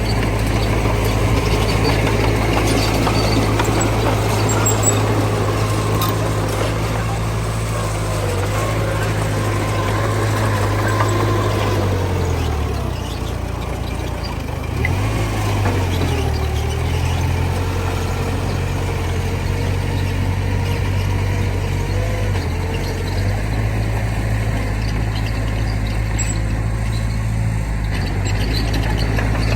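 Heavy diesel engine running steadily, its low pitch dropping and recovering about halfway through and again briefly a little later as the revs change under load.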